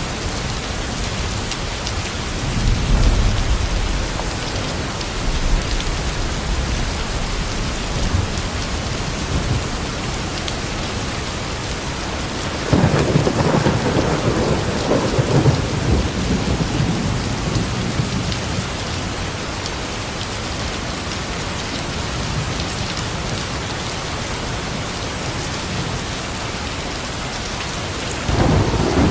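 Steady heavy rain with thunder: a low rumble a few seconds in, a sharper clap about halfway through that rolls off over several seconds, and another starting near the end.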